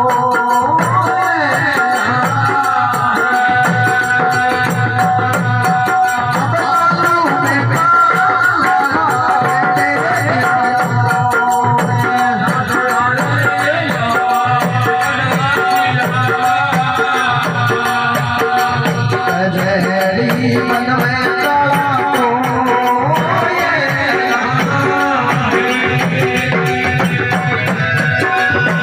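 Live Rajasthani devotional folk music (a bhajan): sustained melody over hand drums and a jingling rattle-like percussion keeping a fast, steady beat.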